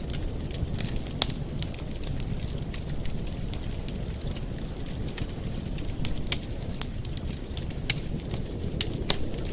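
Campfire burning with a steady low rumble of flames and irregular sharp crackles and pops from the wood.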